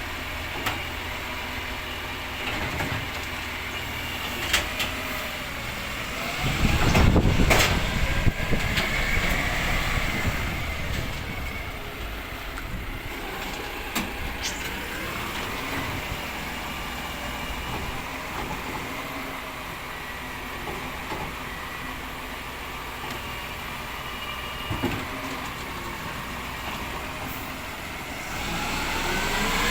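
Rubbish truck's engine running, with a loud rumble and sharp knocks about seven seconds in, and the engine note climbing near the end.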